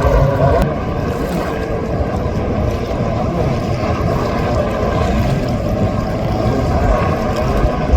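Motorized surfboard (motosurf) engines running steadily on the water, a continuous drone with several steady tones over low rumbling noise.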